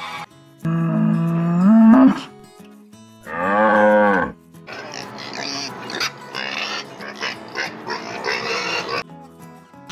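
Cattle mooing twice: a long low moo that rises in pitch at its end, then a shorter one that swells and falls. A noisier stretch of higher animal calls follows, over steady background music.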